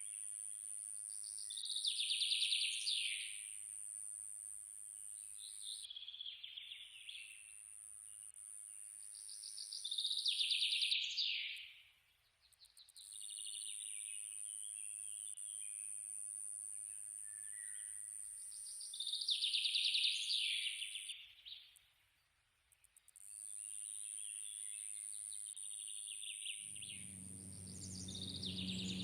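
Cartoon suburban ambience: a steady high-pitched insect drone that drops out briefly a few times, with bursts of small-bird chirping about every eight seconds. Near the end the low steady hum of a lawnmower engine comes in.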